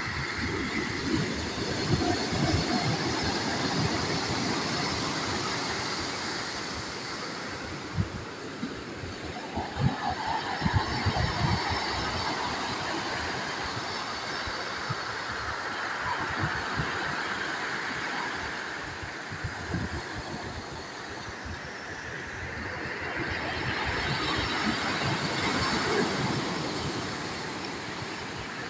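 Sea waves breaking and washing ashore, the surf swelling and easing in slow surges every several seconds, with irregular low rumbles underneath.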